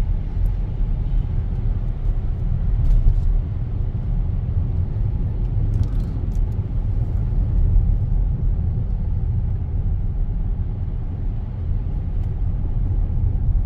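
Steady low rumble of a car driving on a snowy road, heard from inside the cabin: tyre and engine noise with no change in pace.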